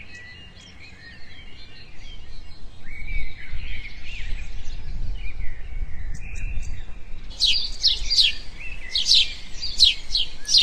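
Birds calling: scattered chirps at first, then from about seven seconds in a quick series of repeated, high, falling calls, a few a second, over a low background rumble.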